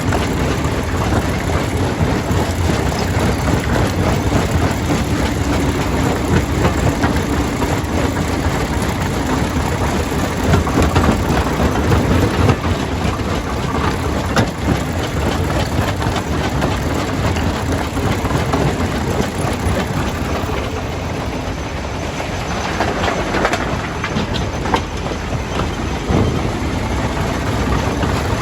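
Stone crusher running with rock going through it: a steady, loud mechanical rumble with a dense clatter of stone.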